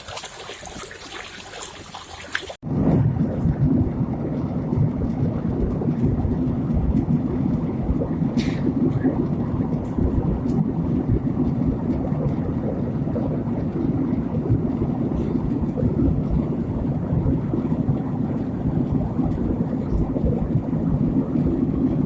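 Water trickling, then after a sudden cut about two and a half seconds in, the loud, steady, deep rushing roar of fast-flowing mountain water.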